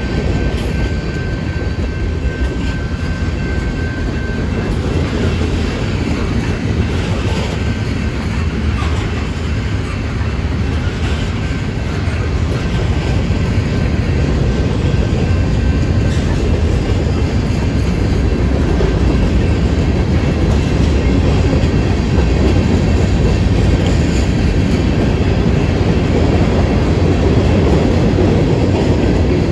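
Freight cars of a long CSX freight train rolling past: a steady rumble of steel wheels on the rails, growing a little louder toward the end.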